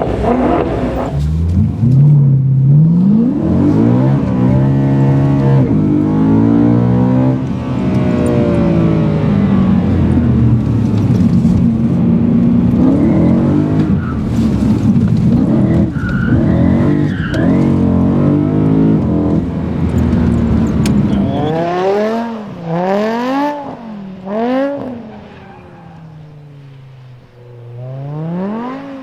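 BMW performance car engine running hard, its pitch climbing and dropping repeatedly. About 22 seconds in it is blipped in several sharp revs in quick succession, dies down, and revs once more near the end.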